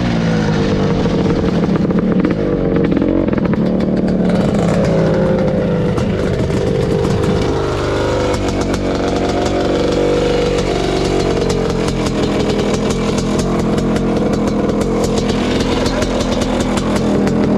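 1986 Kawasaki KX500's 500 cc single-cylinder two-stroke engine running through an FMF Gnarly exhaust pipe, its engine speed wavering up and down with the throttle.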